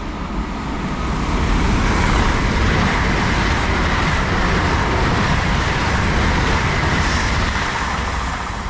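LNER Class 800 Azuma train passing through the station at speed: a loud rush of wheel and air noise that builds over the first two seconds, holds steady, then eases near the end.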